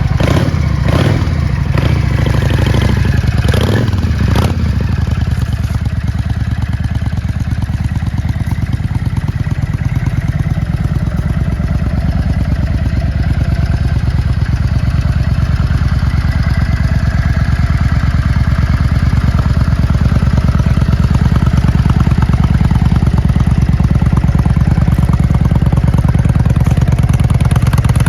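Yamaha XVS650 Dragstar's air-cooled V-twin, just started, revved a few times in the first few seconds and then idling steadily.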